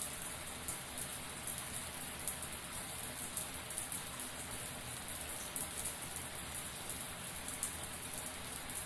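Shower running steadily: a dense spray of water drops pattering on a surface, an even hiss with no breaks.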